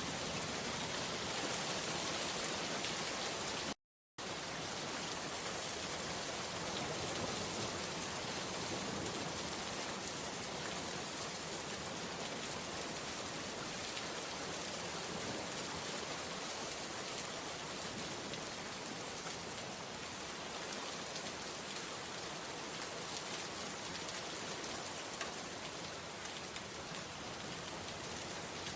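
Steady rain falling, an even hiss with individual drops hitting a surface. The sound cuts out completely for a split second about four seconds in.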